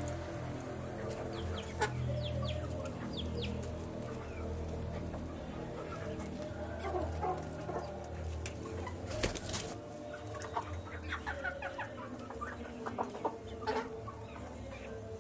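Young chicks peeping in many short, high, falling chirps, with lower clucking among them. About nine seconds in comes a brief, louder noisy burst.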